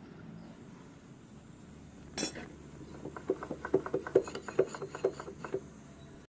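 Metal tools and engine parts clinking on a workbench: one sharp knock about two seconds in, then a quick run of light metallic clinks for a couple of seconds.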